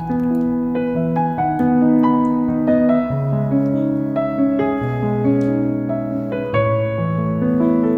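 Background piano music: a calm, slow melody over held chords.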